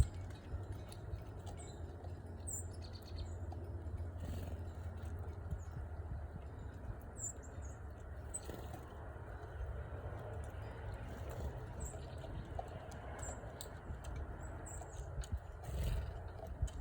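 Small birds giving brief high chirps here and there, about ten in all, over a steady low rumble.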